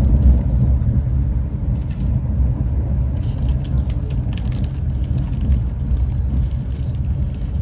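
Steady low rumble of a Renfe class 130 (Talgo 250) high-speed train running along the line, heard from on board, with faint light ticks in the second half.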